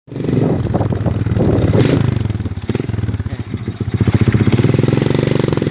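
Motorcycle engine running at low revs with its firing pulses plainly heard, easing off briefly a little past three seconds in and then picking up again.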